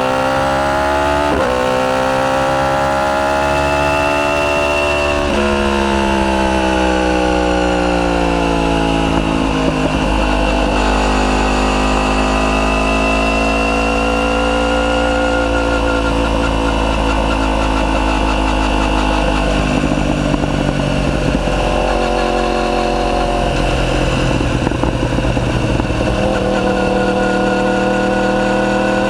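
Yamaha YZF-R1's crossplane inline-four through a decat Akrapovic full titanium exhaust, under way: the engine note climbs, changes up about a second in and again around five seconds, then runs on at varying revs, rising again near the end.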